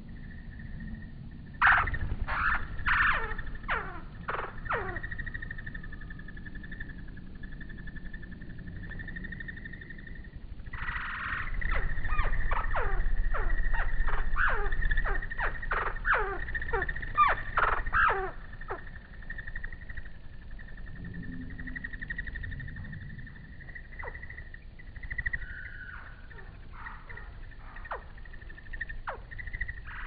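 A steady high insect trill, with two bouts of rapid, steeply falling chirps from birds: a short burst about two seconds in and a longer, louder run from about eleven to nineteen seconds in, then a few scattered chirps.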